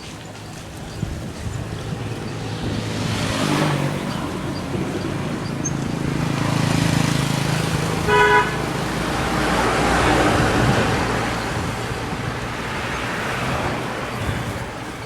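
Busy road traffic: motor vehicles passing one after another, each rising and falling, with one short horn toot about eight seconds in.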